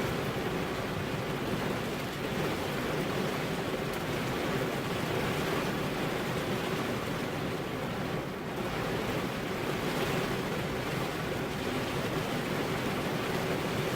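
Steady heavy rain pattering on car window glass, a dense even hiss with a slight lull about eight seconds in.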